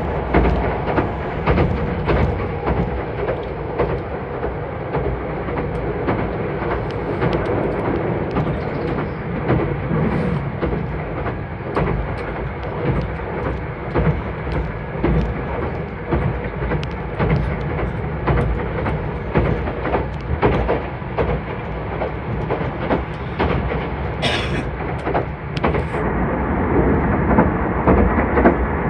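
Meitetsu 2000 series μSKY electric train running at speed, heard from inside the carriage: a steady rumble of wheels and running gear with repeated clicks of the wheels over rail joints.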